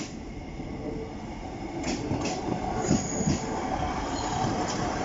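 Two coupled Class 153 diesel railcars run over a level crossing, their rumble growing as they draw close. Two sharp wheel clicks come about two seconds in, and a short high wheel squeal about a second later.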